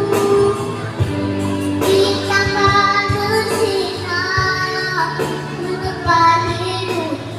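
A child singing a song over musical accompaniment with a steady beat.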